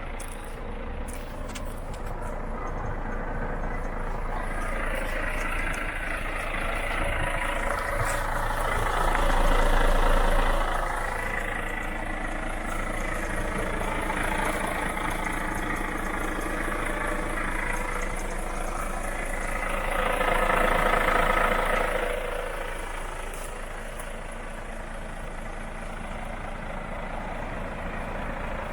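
Volvo FH4 truck's 460 hp six-cylinder diesel running steadily, growing louder twice: about a third of the way in and again about two-thirds through.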